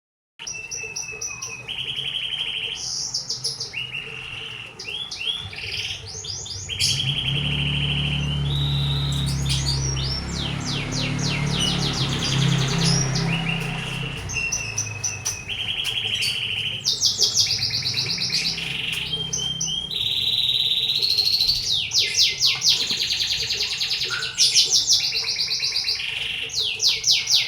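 Domestic canary singing continuously in varied phrases of rapid trills. A low hum runs underneath from about seven seconds in until about twenty seconds in.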